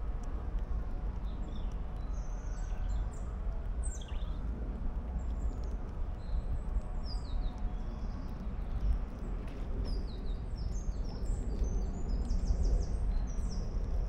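Small birds chirping in short high calls over a steady low background rumble, with a quick run of calls near the end.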